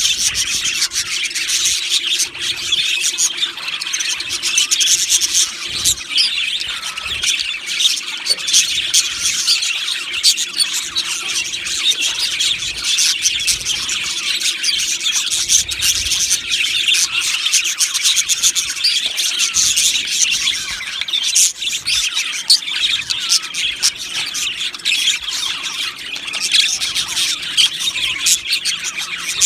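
A flock of budgerigars chattering, with many overlapping chirps, warbles and squawks at once in a continuous dense chorus.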